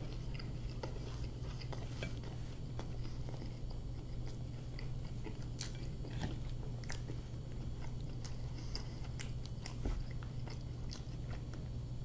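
Close-miked chewing of a hamburger: soft, irregular wet mouth clicks and smacks, over a steady low hum.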